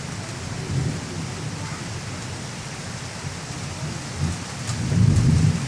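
Steady rain with a roll of thunder that builds about four seconds in and is loudest near the end. It is a fairly mild rumble, not as loud as earlier claps.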